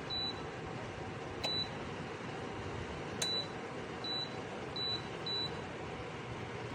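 DAYETTE SH002 space heater beeping: six short, high beeps at uneven intervals, two of them with a sharp click, over a steady hiss.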